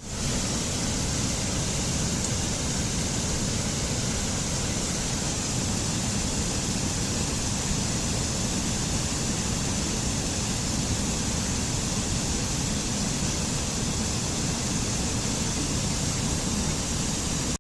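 Steady, loud rushing noise with no pitch or rhythm, switching on suddenly and cutting off abruptly at the end.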